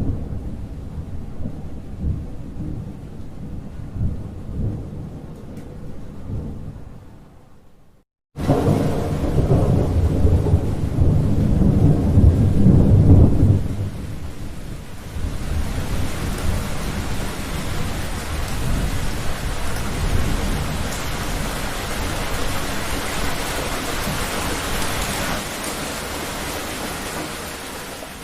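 Thunder rumbling and dying away, then after a brief break a louder roll of thunder lasting several seconds, giving way to steady rain that carries on to the end.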